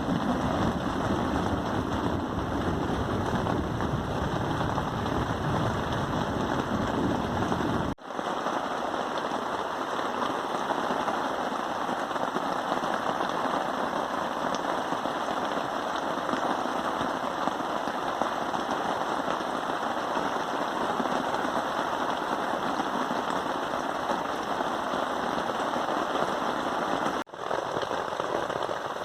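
Steady rain falling, a dense even patter. A low rumble sits under it for the first eight seconds or so, and the sound breaks off briefly twice, about eight seconds in and near the end.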